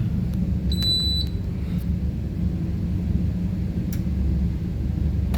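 Walk-in fridge condensing unit running after power-on, its compressor giving a steady low hum, now on a freshly fitted 20 µF capacitor. A single short, high electronic beep sounds about a second in.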